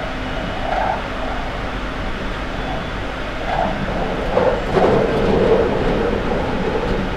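On-board sound of a London Underground 2009 Stock train running between stations in the tunnel: a steady rumble of traction motors and wheels on rail, getting louder and rougher for a second or so a little past halfway.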